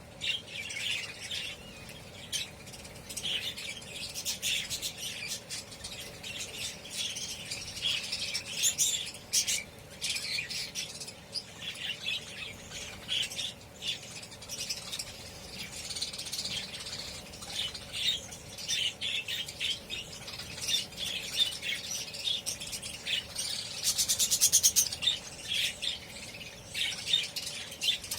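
Budgerigars chattering with continuous overlapping chirps and squawks, with a fast rattling run of clicks near the end.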